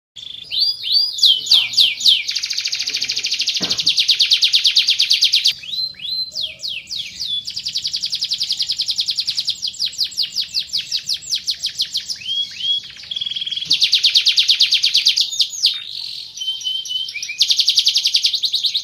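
Van Hesterling canary singing: long, very fast rolling trills, each held for a few seconds, broken by short rising and falling whistled notes and slower runs of chips.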